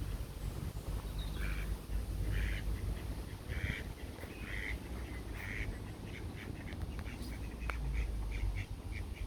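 Duck quacking in a series: fuller quacks about once a second, then quicker, shorter quacks several times a second in the last few seconds, over a low rumble.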